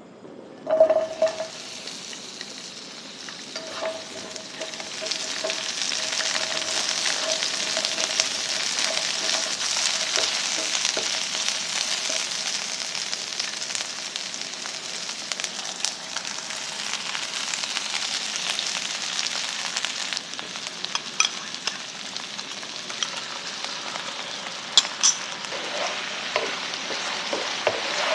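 Horse mackerel and paprika sizzling in a frying pan as they are stir-fried. The sizzle starts with a knock about a second in and runs steadily, with sharp clicks of a utensil against the pan near the end.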